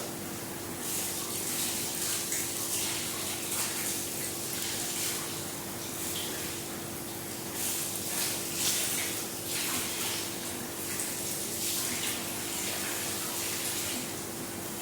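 Tap water running and splashing, surging unevenly, with a steady low hum underneath.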